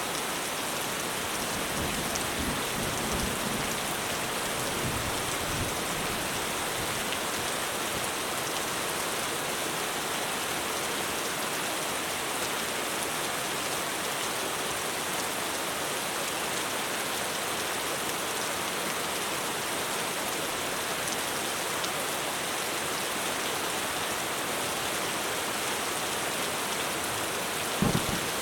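Heavy rain pouring steadily onto a roof, a dense even hiss of drops, with a few sharp knocks just before the end.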